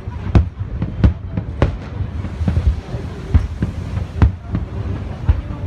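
Fireworks display: aerial shells bursting with sharp bangs, roughly one or two a second, over a continuous rumble of distant explosions.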